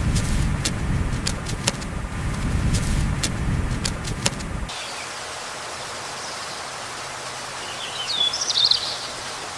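A loud low rumble, like a running engine, with sharp clicks over it, cutting off suddenly just under five seconds in. Then a steady outdoor hiss, with a bird chirping briefly near the end.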